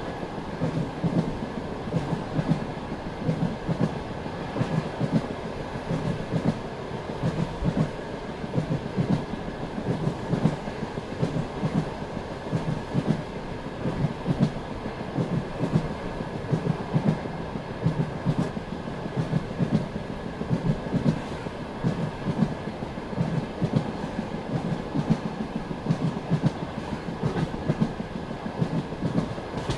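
Passenger train running along the line, its wheels clacking over the rail joints in a continuous run of knocks over a steady low rumble.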